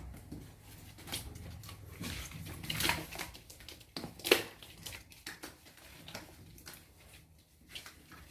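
Baby monkey giving short squeaky cries, one rising about three seconds in and a sharper, louder one a little past four seconds, among scattered knocks and rustles.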